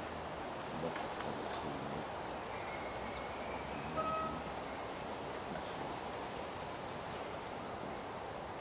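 Woodland ambience: a steady rustle, like leaves in a light breeze, with a few faint, brief bird chirps.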